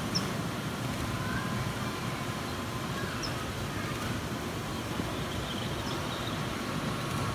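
Steady low rumble of distant road traffic, with a few faint, short high chirps a couple of seconds apart.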